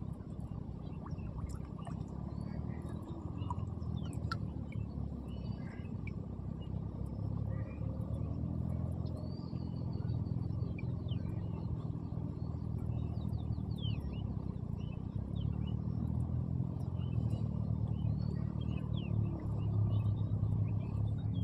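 Steady low rumble outdoors, with small birds chirping faintly and intermittently over it.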